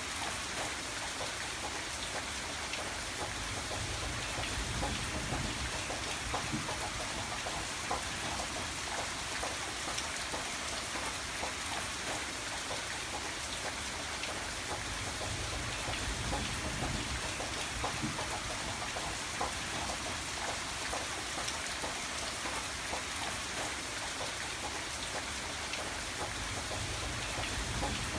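Steady rain falling and pattering on a surface, dense with small drop ticks. A low rumble swells now and then underneath.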